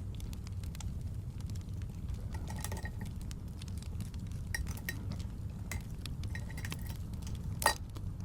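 Fireplace ambience: a steady low rumble with scattered crackling clicks and a few light ringing clinks. One sharp pop near the end is the loudest sound.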